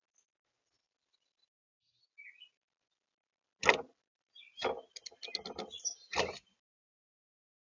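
A bird gives a faint short chirp, then comes a loud sharp knock and, a second later, a quick rattling run of taps and knocks ending in one more knock, as from birds on the balcony.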